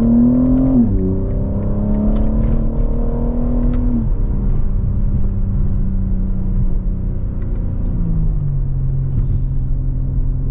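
BMW G80 M3's twin-turbo inline-six, fitted with a single midpipe, accelerating hard. The engine pitch climbs, falls at an upshift about a second in, and climbs again for about three seconds. It then drops to a steady cruise and steps down once more near the end.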